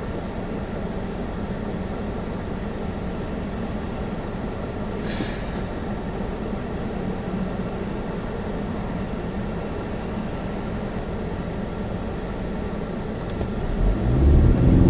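Steady low rumble and hiss inside a small car's cabin, the engine and heater blower running, with a brief sharp hiss about five seconds in.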